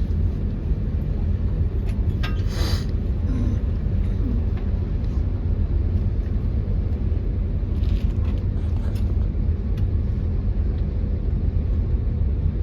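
Steady low drone of a high-speed ferry's machinery heard inside the passenger cabin, with a constant hum under it; a short hissy burst about two and a half seconds in.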